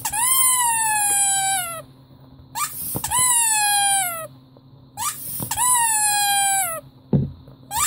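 Rubber squeaky toy squeezed by hand three times, each squeeze a short rising squeak followed by a long squeak falling in pitch. A short dull thump comes near the end.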